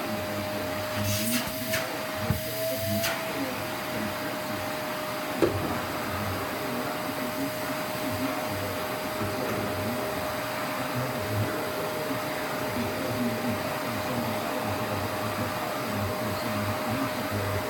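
Vacuum cleaner running steadily: a constant motor whine over a rushing noise. A few short knocks come in the first three seconds, and one click about five and a half seconds in.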